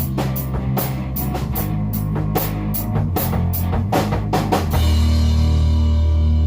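Rock music with a drum kit and guitar tuned a half step down, the drums hitting steadily. About three-quarters of the way in the drums stop and a final chord is left ringing out.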